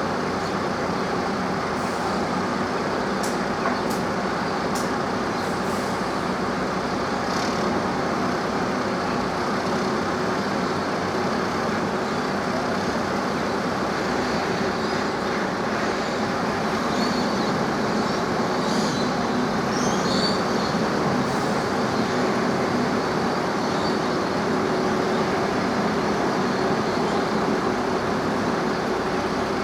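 An engine running steadily, a constant unchanging drone with no revving, with a few faint high clicks in the first few seconds.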